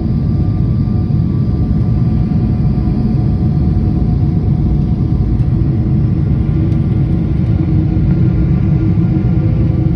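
Boeing airliner cabin noise: a steady, loud rumble of engines and airflow, with a few faint steady engine tones running through it.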